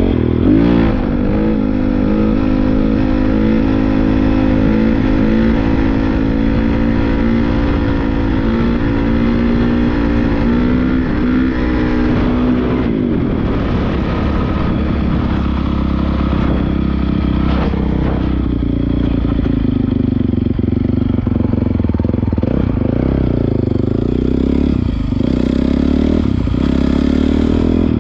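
Honda CRF450R dirt bike's single-cylinder four-stroke engine running under way. The engine note holds fairly steady for about the first twelve seconds, then rises and falls repeatedly as the throttle changes.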